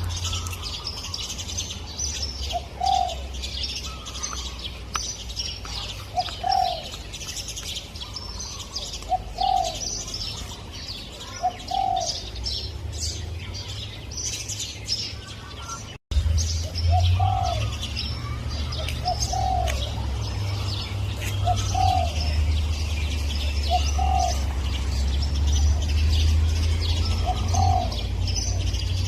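Spotted dove cooing, a short arched coo repeated every two to three seconds, over a busy chorus of small birds chirping and a steady low rumble. The sound cuts out for an instant about halfway through.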